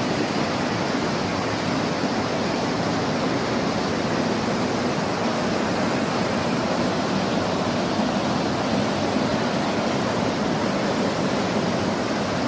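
Waterfall: water pouring and rushing in a steady, unbroken wash of noise.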